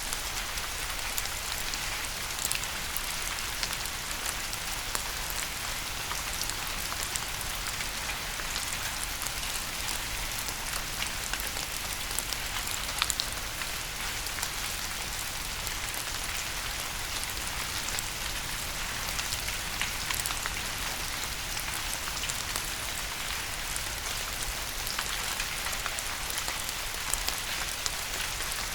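Steady rain falling, an even hiss with many individual drops ticking and pattering on a hard surface close by.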